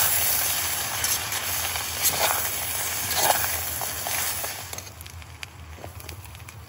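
Noodles sizzling in a titanium pot on a gas canister stove, with a spoon scraping the pot as they are stirred. The sizzle drops away to a much quieter level about five seconds in.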